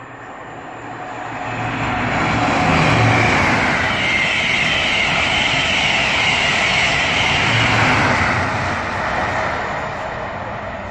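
An express passenger train running through the station at speed on the fast line: a rush and rumble of wheels on rail that builds over the first two seconds, holds loud for about six seconds while the coaches pass, then fades away.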